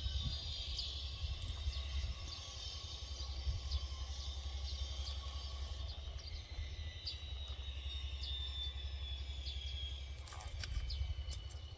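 Outdoor ambience: a steady low rumble under a high, thin chirping that runs throughout, with a faint high tone slowly falling in pitch in the second half.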